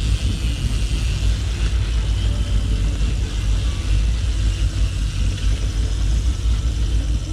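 Steady low rumble with an even hiss from a trolling fishing boat under way: motor, water and wind noise.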